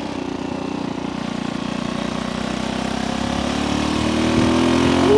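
Small single-cylinder vintage motorcycle engine running while being ridden, its pitch and loudness climbing steadily over the last couple of seconds as it accelerates.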